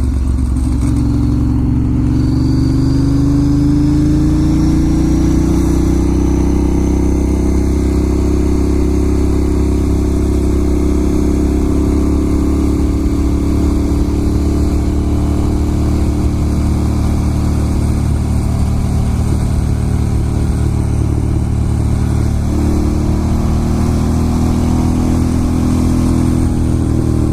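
Ducati Monster S2R 1000's air-cooled L-twin engine running steadily as the motorcycle is ridden, its pitch rising a little over the first few seconds and dipping briefly near the end.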